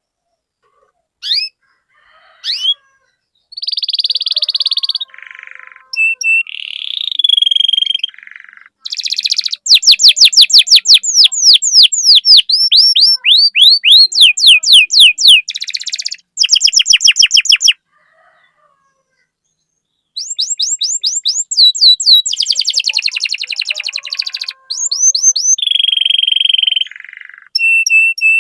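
Domestic canary singing: fast rolling trills of quick descending notes, buzzy phrases and short chirps, with a pause of about two seconds just past the middle.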